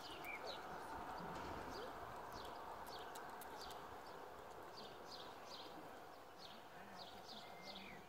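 Small birds chirping, many short high calls that sweep downward, over a faint steady outdoor background noise.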